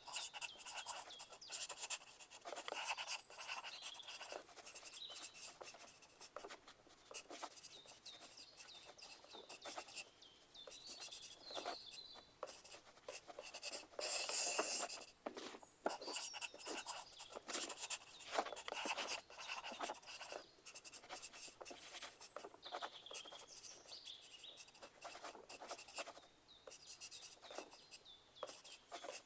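Pencil writing on paper: a run of irregular, scratchy strokes, with a louder patch of writing about halfway through.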